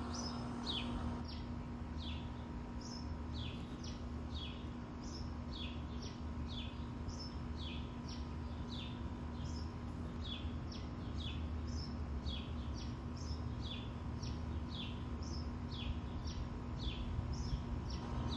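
A bird calling over and over, short high notes that sweep downward, about two a second, over a steady low hum.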